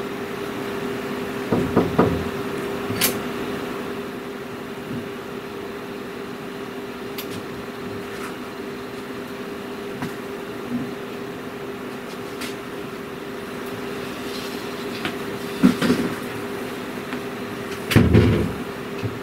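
Steady air-conditioning hum with two level tones, broken by a few short knocks and clicks, the loudest a heavy low thump near the end.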